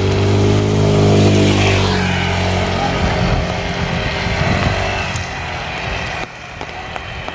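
A motor vehicle passing close by, its engine loudest about a second in and dropping in pitch as it goes away, over a steady hiss of heavy rain. The level drops suddenly near the end.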